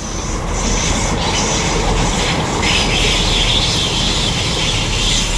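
A train running past on the active line, a steady rumble of wheels on rail, with a higher hiss joining about halfway through.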